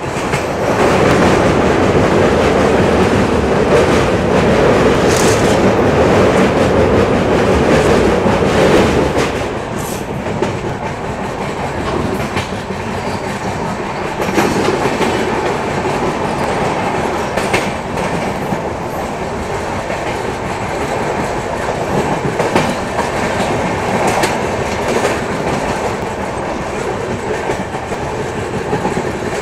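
Indian Railways passenger train (the Yoga Express) running along the track, heard from an open coach doorway. The wheels give a steady rumble with a scattered clickety-clack over the rail joints, louder for about the first nine seconds and then evener.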